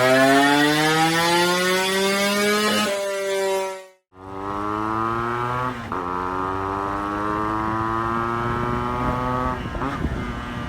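Yamaha RX135 motorcycle's two-stroke single-cylinder engine pulling under acceleration, its note climbing in pitch with brief dips as at gear changes. The sound cuts out for a moment about four seconds in, then picks up again and holds a steadier note.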